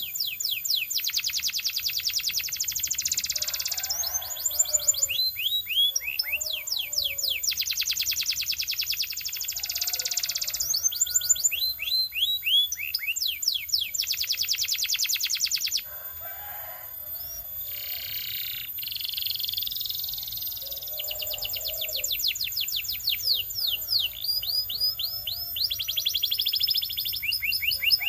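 Belgian canary singing: long rapid trills of fast-repeated high notes alternating with runs of short, downward-sweeping whistled notes, with softer, lower chattering between phrases.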